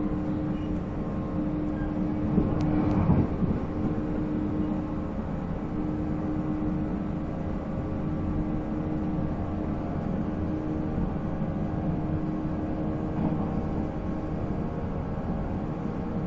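485-series electric train running at speed, heard on board. Its MT54 DC traction motors and gears give a steady hum over the rumble of wheels on rail, with a short louder burst about three seconds in.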